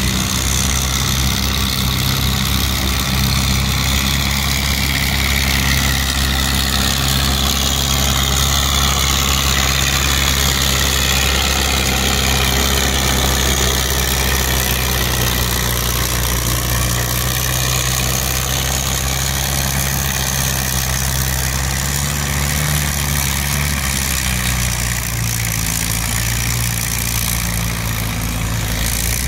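Antique farm tractor engine running steadily at an even, low pitch, with a faint wavering whine above it and a small change in pitch near the end.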